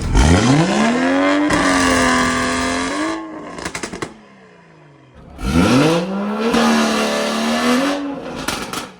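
A car engine revved hard twice: each time the pitch climbs quickly, holds high for about two seconds, then drops off, with a short quieter gap between the two.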